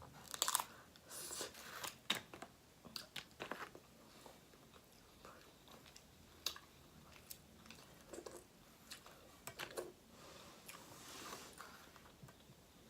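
Close-miked eating sounds from a person eating snow crab and shrimp: soft chewing and biting, broken by irregular crunches and clicks.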